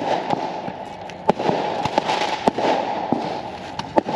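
Consumer fireworks going off: a continuous crackling hiss punctuated by about half a dozen sharp bangs at irregular intervals.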